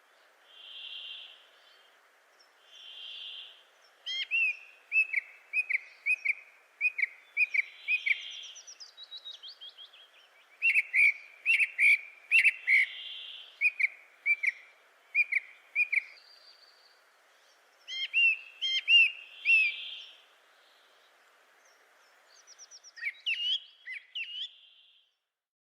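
Birds singing: several phrases of quick, repeated chirping notes with pauses between them, and a few softer whistled notes in the gaps.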